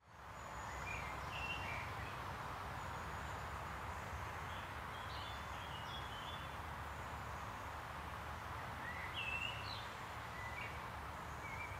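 Woodland birds calling and singing in short scattered phrases of chirps over a steady background of low outdoor noise. The sound fades in over the first second.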